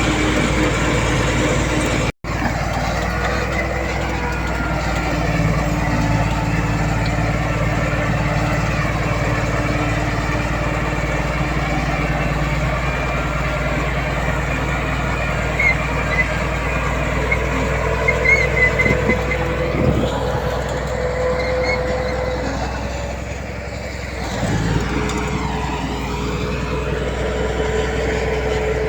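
Diesel engines of heavy earthmoving machines, a bulldozer and dump trucks, running steadily under work, with their pitch shifting slowly. The sound breaks off completely for a moment about two seconds in, and a few short high squeaks come through midway.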